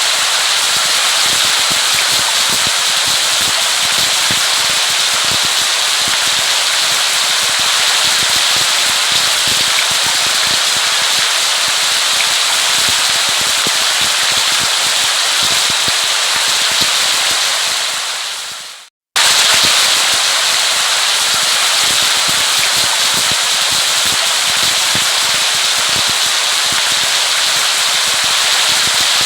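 Steady rain, a dense hiss of many small drops with a crackling patter. About two-thirds of the way through it fades out, goes silent for a moment, then cuts straight back in at full level, as at the seam of a looped recording.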